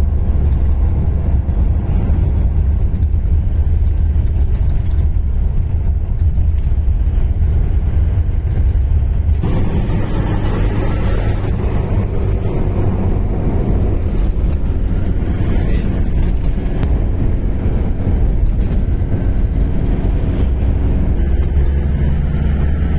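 Mitsubishi Fuso truck's diesel engine and road noise while driving, a steady low rumble. About nine seconds in the engine note rises and grows fuller.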